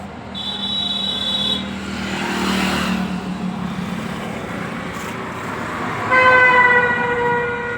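Road traffic with vehicle horns: a short high-pitched horn toot about half a second in, a passing vehicle's engine swelling around two to three seconds, then a loud, steady horn blast of about a second and a half near the end.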